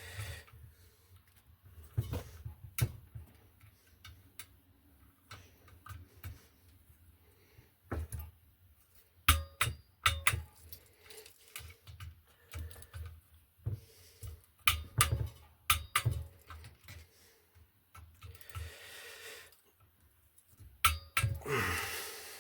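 Ratchet torque wrench tightening the heat exchanger bolts on a Volvo Penta D2-55 diesel to their final torque: scattered metal clicks and clinks, some in quick runs, with a short scraping rattle twice near the end.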